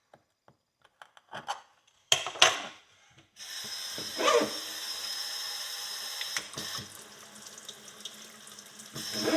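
A few sharp clicks and scrapes, then a water tap turned on about a third of the way in, running steadily to wet a rusty horseshoe for cleaning.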